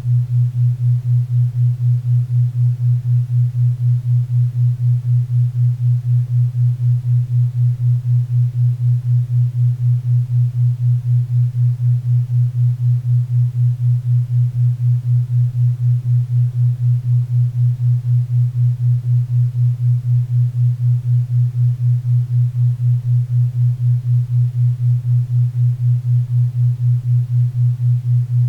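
Synthesized 4 Hz theta-wave tone: a steady low tone pulsing evenly about four times a second, over faint pink and brown noise.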